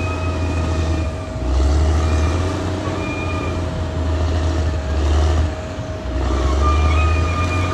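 Caterpillar D6R XL bulldozer's diesel engine working, its low rumble swelling and easing several times as the load changes. A steady hum and a higher whine that comes and goes run over the running of the machine.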